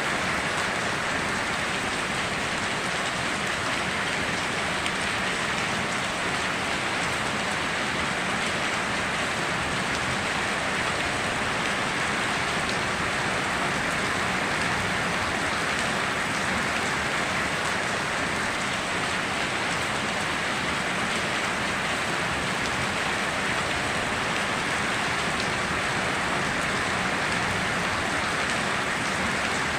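Steady heavy rain falling, an even hiss of drops with no distinct strikes and no thunder.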